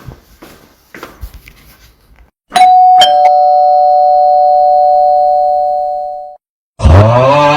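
Two-note doorbell chime sound effect in a cartoon: two notes struck about half a second apart, ringing steadily for about three seconds, then cut off abruptly. Light, regular taps come before it, and near the end a loud call rises then falls in pitch.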